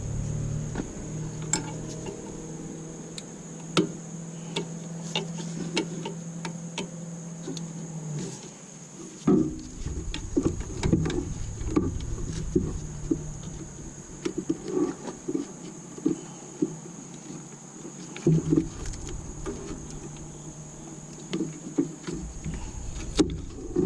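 Irregular clicks and light metal knocks of hand tools and parts being handled while unbolting the alternator, bunched more densely in a few spells.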